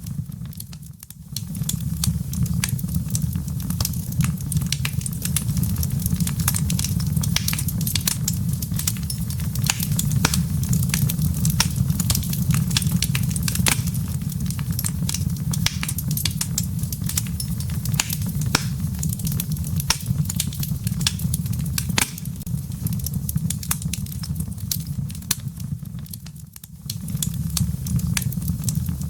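Wood fire in a fireplace crackling, with many small sharp pops over a steady low rumble. The sound dips briefly about a second in and again near the end.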